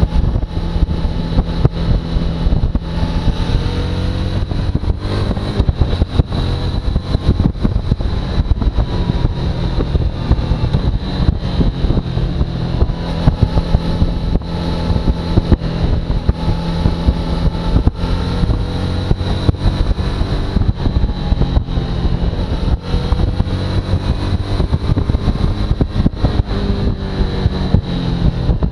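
Suzuki V-Strom motorcycle engine running steadily under way, with rough wind buffeting on the microphone and a thin high whine above the engine note.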